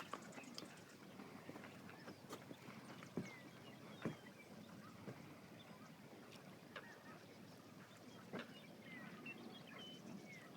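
Quiet wetland ambience: scattered faint bird calls, short high chirps, with a few soft knocks now and then.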